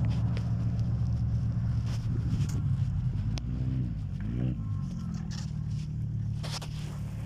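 An engine running steadily, easing off slightly toward the end, with scattered short scrapes and clicks over it.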